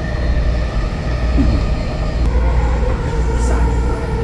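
Rapid-transit train car running along the track, heard from inside: a steady low rumble, with a steady whine joining in about halfway through.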